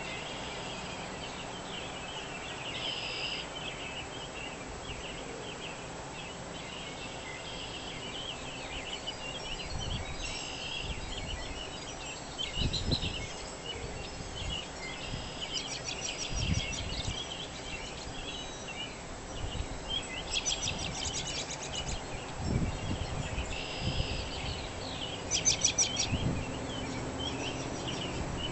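A dawn chorus of many birds chirping and singing at once, with quick rapid trills standing out three times. A few low rumbles sound underneath.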